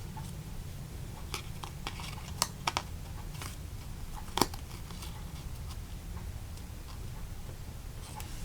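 A few scattered small clicks and taps from a card and its little trinket embellishment being handled and pressed onto the card, with the loudest tap about four and a half seconds in. A faint low hum runs underneath.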